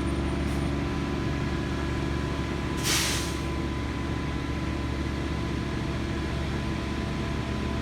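Heavy engine running steadily at idle, with a short burst of air hiss about three seconds in.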